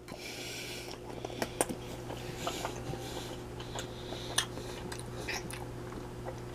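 A person chewing a mouthful of pepper steak, a ground-beef patty, with many small wet clicks of the mouth. A steady low hum runs underneath.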